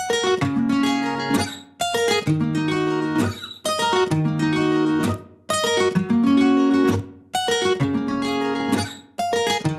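Music: acoustic guitar playing short plucked and strummed phrases, each ringing out and dying away before the next.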